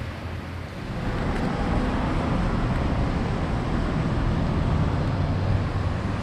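Traffic noise on a rain-soaked street: a steady hiss of tyres on wet pavement with a low rumble, growing louder about a second in.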